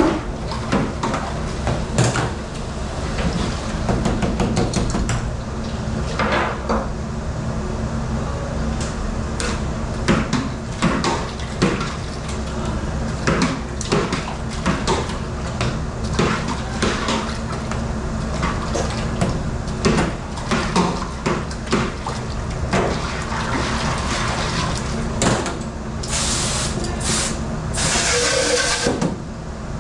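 Commercial dish room at work: dishes and trays clattering over a steady machine hum and running water, with a louder burst of spraying water for a few seconds near the end.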